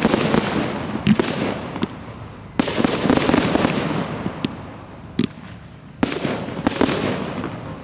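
Aerial fireworks shells bursting in a professional display: a string of sharp bangs in uneven succession, each trailing off in a long fading tail.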